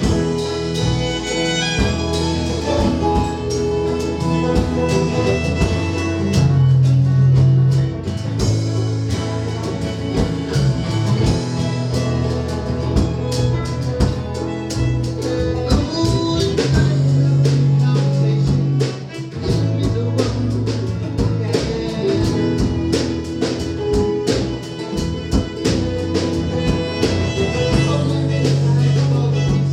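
A band playing an instrumental passage: guitar and fiddle over bass notes and a steady beat.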